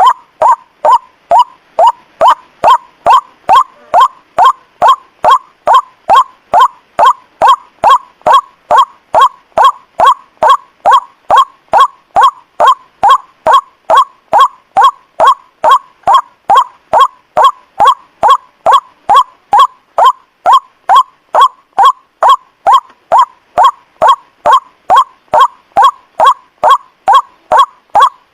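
White-breasted waterhen call, a loud, short call repeated over and over at about two a second with machine-like regularity, used as a lure call to attract waterhens.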